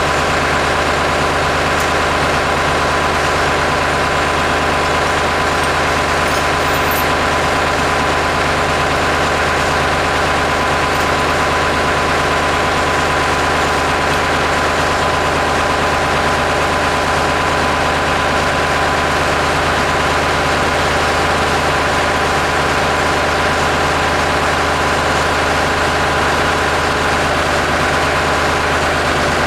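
Farm tractor engine idling steadily, with no change in speed.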